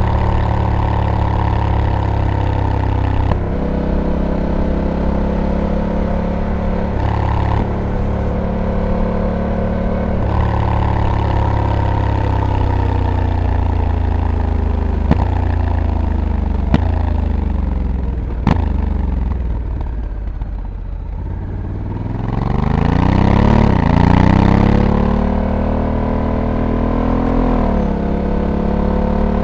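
Honda Africa Twin DCT's parallel-twin engine under way, with its pitch stepping between gears in the first ten seconds. The pitch then falls steadily for several seconds as it slows, with three sharp clicks along the way. It pulls up again loudly from about 22 seconds, with one more gear change near the end.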